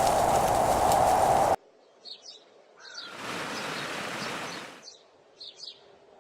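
A steady loud rushing noise cuts off suddenly about a second and a half in. Then, in much quieter surroundings, small birds chirp in brief bursts three or four times, with a soft swell of rushing noise rising and fading between them.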